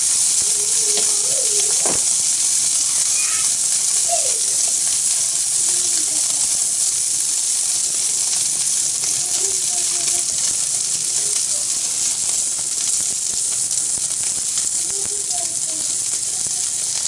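Okonomiyaki batter sizzling steadily on a hot, thick iron mini griddle, hot enough that the underside is scorching. The hiss is constant and high, easing slightly over time. Faint voices murmur in the background now and then.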